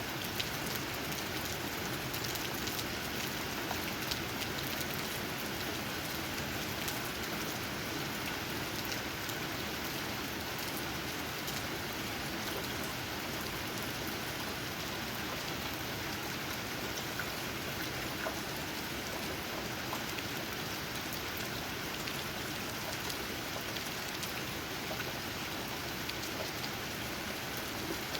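Steady rain falling, with many individual raindrops tapping on tree leaves.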